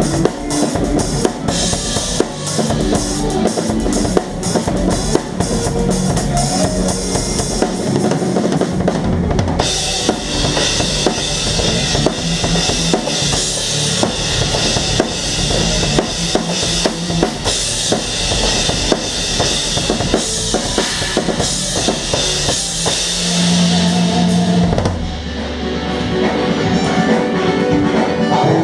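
Live band music with the drum kit up front: steady kick and snare strokes under pitched band notes. About ten seconds in, a bright cymbal wash thickens the top end and carries on until it eases off near the end.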